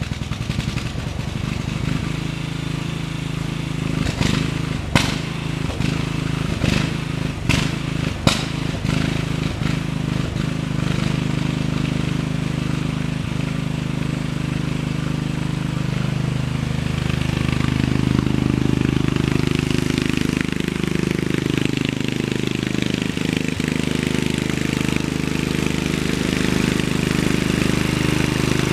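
Riding lawn mower's small engine running steadily, with several sharp clanks about four to eight seconds in. Past the halfway mark it runs a little louder and higher, as under more throttle or load.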